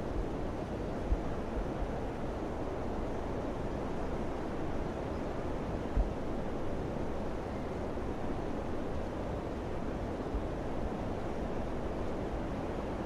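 Steady summer wind blowing, a low, even rush, with brief low buffets of wind on the microphone about a second in and around six seconds.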